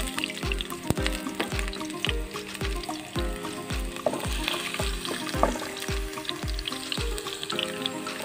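Chopped garlic sizzling in hot oil in a pan while being stirred with a wooden spatula. Background music with a steady kick-drum beat, about two beats a second, plays over it and drops its beat about a second before the end.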